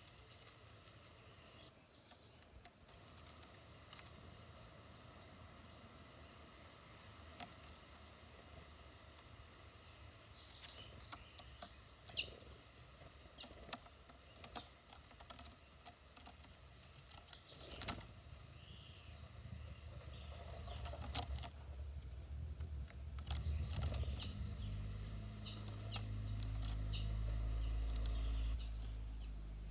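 Small birds giving short, high-pitched chirps at intervals, over quiet forest background noise; a low rumble builds up near the end.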